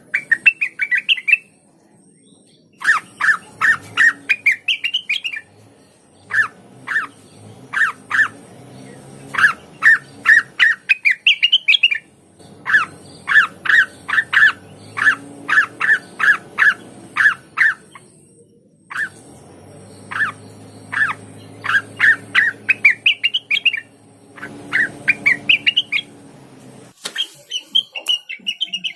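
Cucak wilis leafbird singing: loud phrases of rapid, short, sharp notes, some climbing in pitch at the end of a phrase, broken by short pauses.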